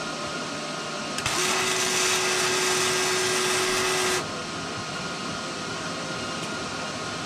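MIG welding arc hissing and crackling in one burst of about three seconds as a bead is run on the steel dozer blade edge, starting and cutting off abruptly, with the steady hum of the wire feed under it. A steady machine hum runs underneath throughout.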